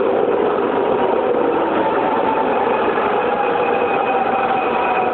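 Driverless light rail train coming into a station, a loud, steady running noise with faint whines that slowly drop in pitch as it slows.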